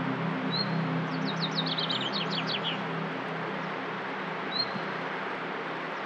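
Wild birds singing: a short upward chirp repeated every few seconds, and about a second in, a quick run of falling whistled notes lasting about two seconds, over a steady hiss.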